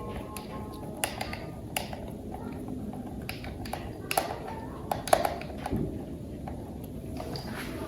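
Irregular light clicks and taps of plastic toy parts being handled, about one or two a second over a low, steady background.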